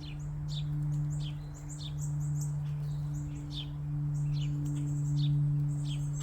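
Small songbirds chirping: many short, high, downward-sweeping notes several times a second, from more than one bird, over a steady low hum.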